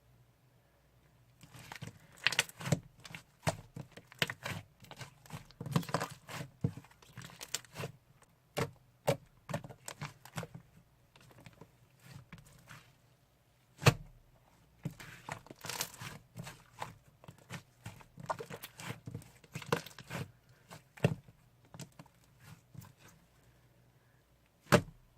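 Hands squeezing and poking slime: quick runs of small wet clicks and pops with brief pauses, and a sharper single pop about 14 seconds in and another near the end.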